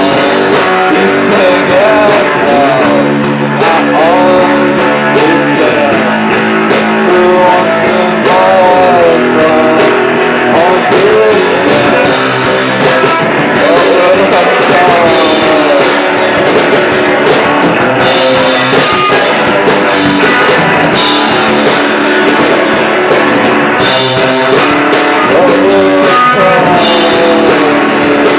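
Live rock band playing: electric guitars and a drum kit in a loud, continuous instrumental passage.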